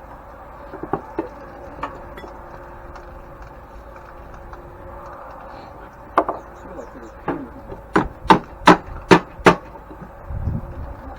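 Hammering during the teardown of an old grain mill. A few scattered knocks come first, then five sharp, evenly spaced blows about two-fifths of a second apart, and a duller thud near the end.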